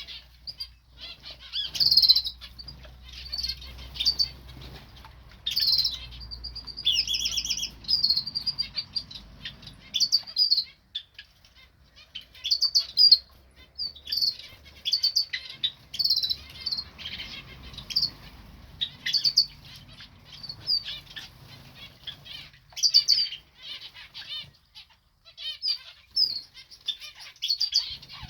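Small cage birds bathing: frequent high chirps and tweets mixed with bursts of wing flapping and splashing.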